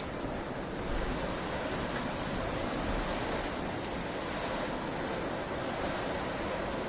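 Fireplace fire ambience: a steady rushing hiss with a few faint crackles.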